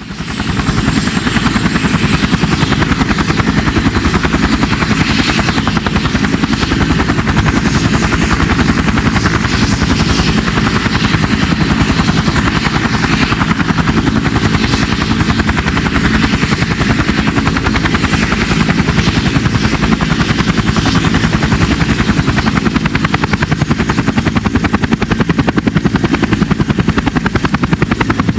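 CH-47 Chinook tandem-rotor helicopter running, a fast, even beat of rotor blades with a thin steady high whine from its turbine engines. It fades in quickly at the start, then holds steady and loud.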